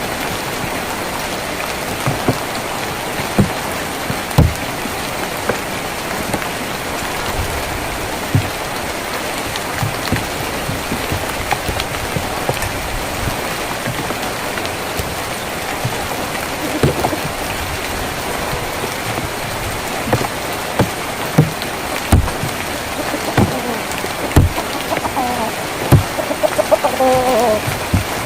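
Steady rain on a tin roof, with heavier drops landing now and then as sharp taps. A chicken starts clucking near the end.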